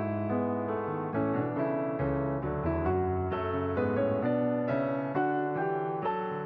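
Background music: a piano or electric piano playing a gentle melody over sustained notes.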